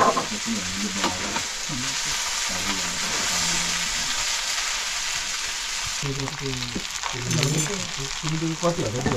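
Food sizzling as it fries in a hot pan, a steady hiss throughout.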